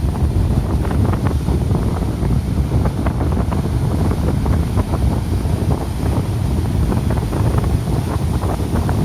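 Strong storm wind from an approaching typhoon buffeting the microphone in a constant, ragged rumble, over the noise of heavy sea surf.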